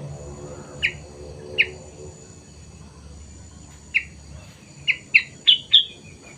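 A caged kutilang sutra, a black-and-yellow songbird, giving short, sharp chirps. Two single notes come in the first couple of seconds and one more a little before the middle, then a quick, louder run of four chirps near the end.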